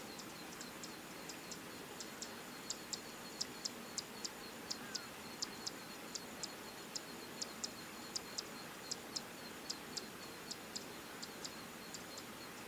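Zitting cisticola singing: a long run of short, sharp, high-pitched 'zit' notes, about two or three a second and unevenly spaced, loudest in the middle of the run.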